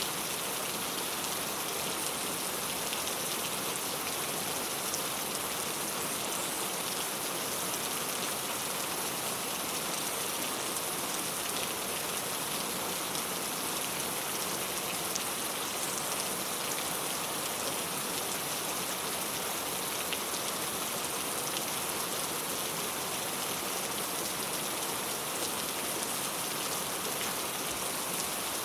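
Steady rain falling on a clay tile roof: a dense, even sound of many small drop impacts that holds unchanged throughout.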